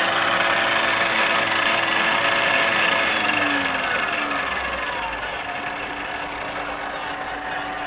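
Milling machine running with a gear cutter, cutting teeth in a lathe tumbler gear: a steady motor and cutting noise with several held tones. About three to four seconds in, some of the tones slide down in pitch, and the sound grows a little quieter afterwards.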